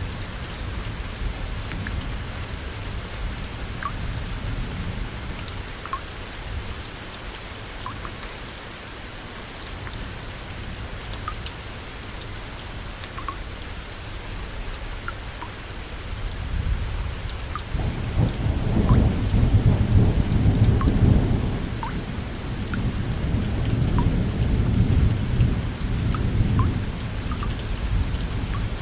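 Steady heavy rain with small drops ticking, and a long roll of thunder that builds past the middle and rumbles on, loudest a few seconds after it starts.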